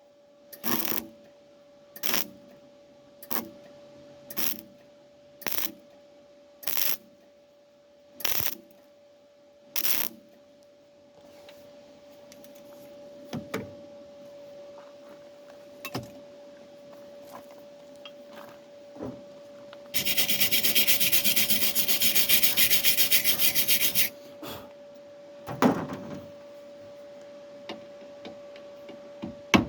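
MIG welder on car body steel, laying short stitch-weld bursts about one a second, followed by a louder continuous burst of about four seconds two-thirds of the way through. A faint steady hum runs underneath.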